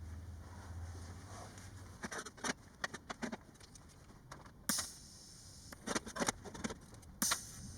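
Workshop sounds of metal exhaust parts being handled: scattered clinks and knocks. A low hum for the first couple of seconds, and two short, sharp hisses, one about halfway through and one near the end.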